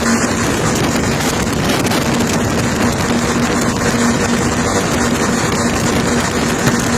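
Powerboat with twin 300 hp engines running flat out: a steady engine hum under the loud rush of water and wind, with wind buffeting the microphone.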